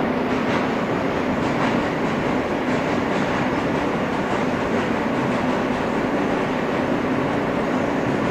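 Inside an R160 subway car running between stations: a steady rumble of wheels on rail with a low hum, and a few faint clicks from the wheels.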